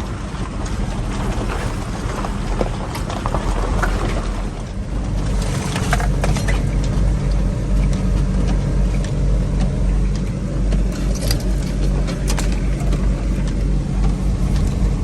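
1985 Toyota pickup driving, its engine running steadily and getting louder about five seconds in, with a few sharp knocks and rattles from the truck over rough ground.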